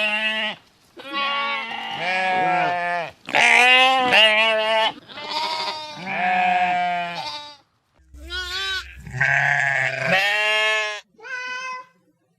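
Sheep bleating: a run of about eight calls, one after another, some long and wavering, the last ones shorter and fainter.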